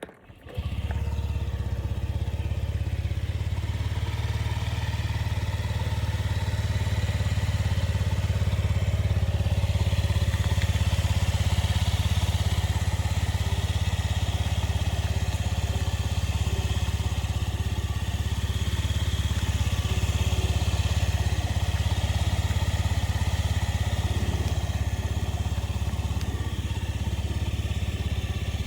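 Honda Dio Z4 scooter's small single-cylinder four-stroke engine running steadily at idle, starting abruptly about half a second in.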